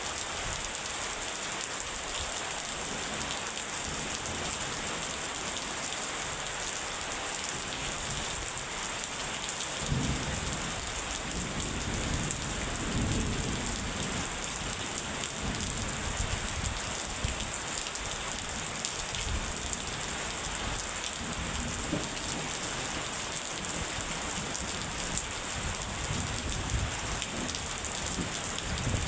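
Steady heavy rain with thunder: a low rumble rolls in about a third of the way through, comes and goes, and builds again near the end.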